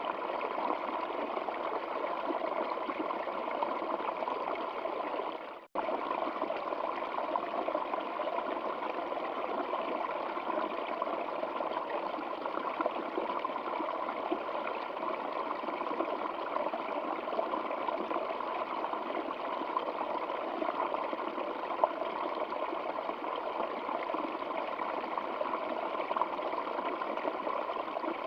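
Water in a stream flowing and trickling steadily. The sound briefly fades out and cuts off about six seconds in, then resumes at once.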